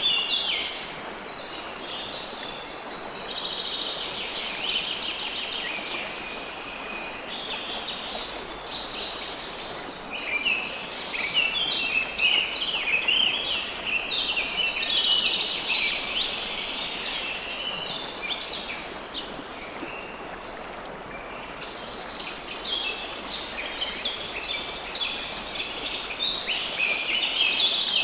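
River water flowing steadily, with many small birds chirping over it. The birdsong comes in waves, busiest near the start, in the middle and near the end.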